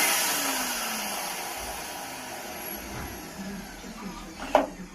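Titan vacuum cleaner's motor winding down after being switched off: the whoosh of air fades steadily and its whine falls in pitch. A sharp click comes about four and a half seconds in.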